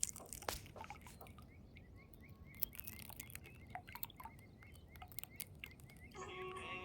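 Water trickling and dripping among stones: irregular sharp clicks and small rising plinks. Music comes in near the end.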